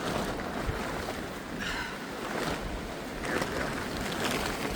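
Windstorm gusting outdoors, a steady rushing noise.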